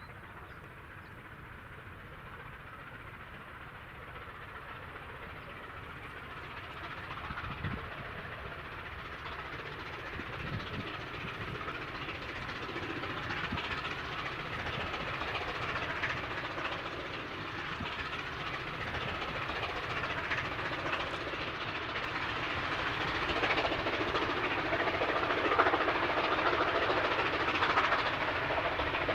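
A train on the move: steady rail and wheel noise with scattered small knocks, growing gradually louder throughout.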